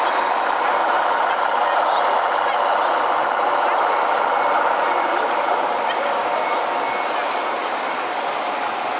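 Radio-controlled truck running steadily, a continuous mechanical noise with a faint high whine over it that eases slightly in the second half.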